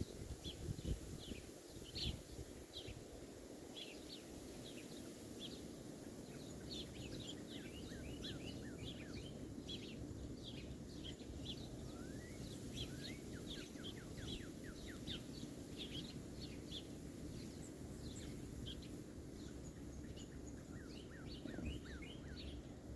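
Small birds chirping and calling, many short high notes in quick succession, with two runs of quick sliding lower notes about halfway through and again near the end. A steady low rumble lies underneath, with a few low bumps in the first couple of seconds.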